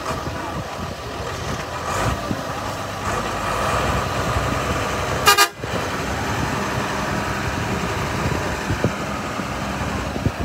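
Vehicle engines running with a short, loud horn toot about five seconds in.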